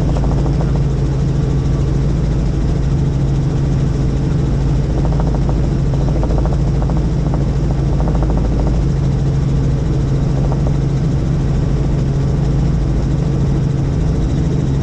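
Helicopter in flight: a steady drone of rotor and engine with a strong low hum that holds the same pitch throughout.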